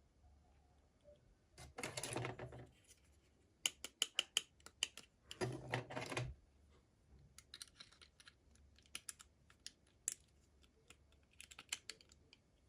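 Toy packaging being handled: two short bursts of rustling plastic, about two and six seconds in, among many light, sharp clicks and taps.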